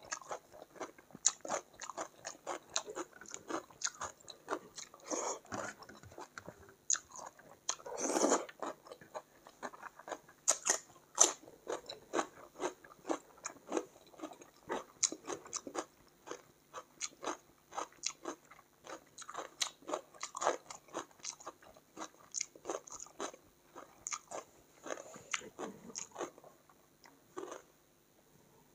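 A person chewing food close to a clip-on microphone: rapid wet clicks and crunches of the jaw working. There is one louder, longer crunch about eight seconds in, and the chewing stops shortly before the end.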